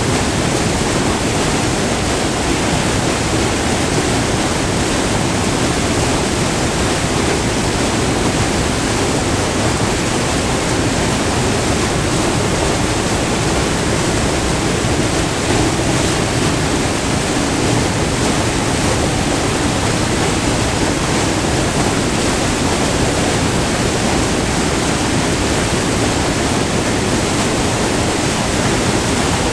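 Short multi-tiered river waterfall, white water pouring and splashing in a loud, steady rush.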